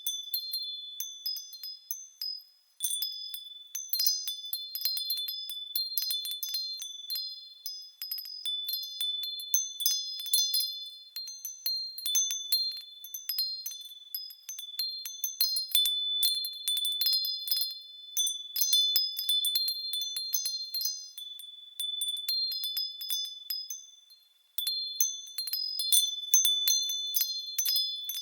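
Japanese furin wind chimes ringing in the breeze, struck many times in quick irregular clusters with high, clear tones. The ringing dies away briefly about two seconds in and again near the end before the chimes start up again.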